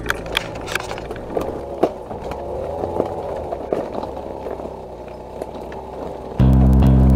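A scooter rolling along, rattling, with frequent clicks and a wavering whine that rises and falls. About six seconds in, loud background music with heavy bass starts abruptly.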